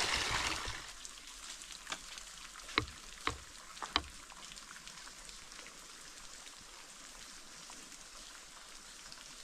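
Running water from a levada channel fading down in the first second, leaving a faint steady hiss of flowing water. Four sharp taps sound between about two and four seconds in.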